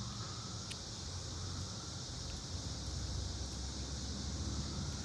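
Steady outdoor background noise: a low hum under an even high-pitched hiss, with one faint click about a second in.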